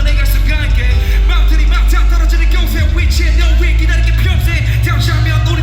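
Live song performance: singing over loud music with a heavy, booming bass line.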